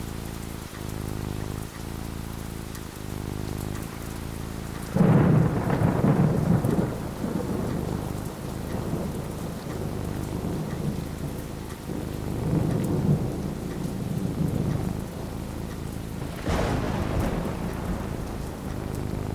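Thunderstorm with steady rain: a sudden clap of thunder about five seconds in rumbles on for a couple of seconds, a lower rumble swells in the middle, and another clap breaks near the end.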